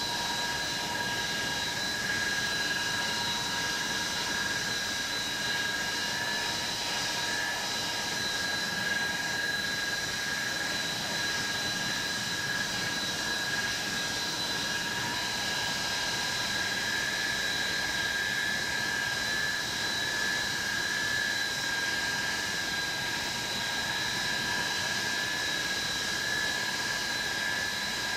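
Avro Vulcan's Bristol Olympus turbojet engines running steadily on the ground: a constant rush with a high, steady whine on top.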